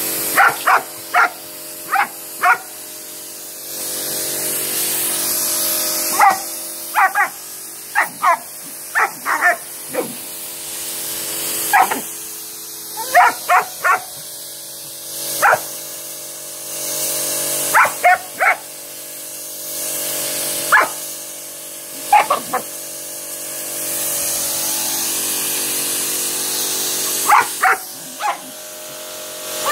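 German Shepherd barking in short clusters of two to four barks at a running pressure washer. Under the barks the washer's motor hums steadily, and its spray hisses in stretches of a few seconds that come and go.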